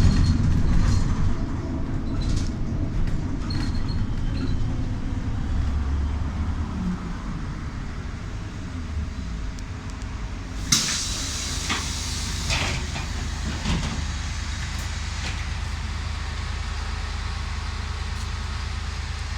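Trolleybus running, heard on board: a steady low rumble throughout. About halfway through, a sudden loud burst of compressed-air hiss lasts about a second, followed by a few knocks and clacks.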